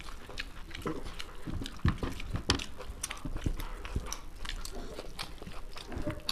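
Close-miked chewing with irregular lip smacks and wet clicks, and fingers mixing rice on the plates.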